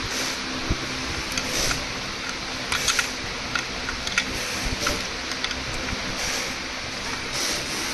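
Irregular small clicks and taps of hand work on metal parts over a steady background hum and hiss.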